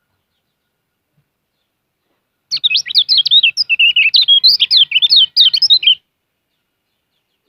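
Kecial kuning (a yellow white-eye) singing a fast, twittering warble of quick rising and falling high notes, lasting about three and a half seconds and starting a little over two seconds in.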